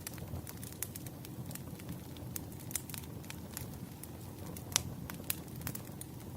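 Burning firewood crackling: irregular small pops and snaps over a soft low rumble, with one sharper crack near the end.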